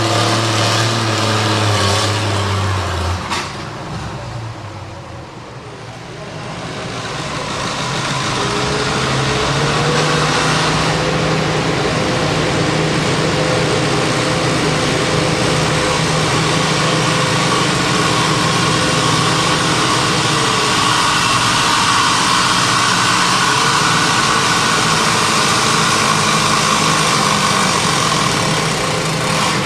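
Farm tractor engine running hard at steady full throttle while pulling a weight-transfer sled at a tractor pull. About three seconds in, the engine note drops away and quietens, then builds back up to a steady pull from about eight seconds on.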